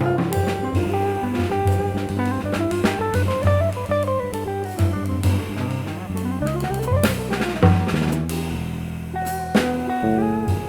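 Instrumental trio of guitar, bass and drum kit playing a samba tune. The guitar plays melodic runs that climb and fall twice, over a walking bass line and drums with rimshots.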